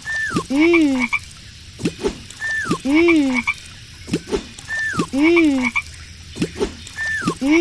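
Cartoon frog sound effect from a children's phonics game: a short falling whistle followed by a ribbit-like croak, repeated about every two and a half seconds, with soft clicks between.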